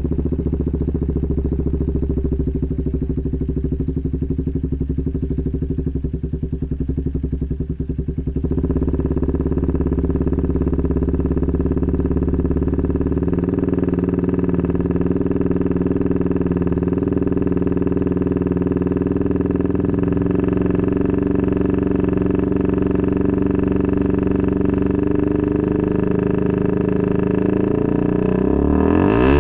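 Motorcycle running on a CAT Racing aftermarket racing exhaust, idling steadily with a deep pulsing note. About eight seconds in the exhaust note gets louder and brighter and holds there evenly.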